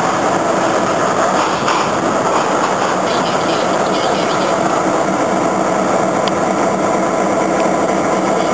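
A train rolling past: a steady rumble of diesel engine and wheels on rail.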